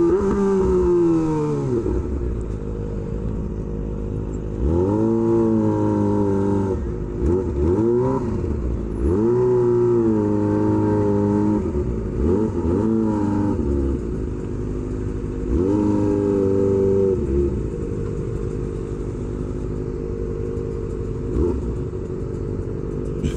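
Kawasaki Ninja ZX-25R's 249 cc inline-four running through an SC Project exhaust, revved up and down several times in short bursts, with steady low running in between. It settles to a steady idle for the last few seconds.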